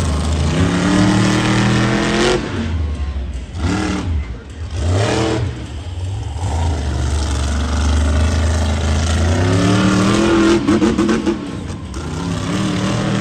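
Monster truck engine revving hard, its pitch climbing sharply four times as the throttle is opened and dropping back between, with a steadier, lower-pitched stretch in the middle.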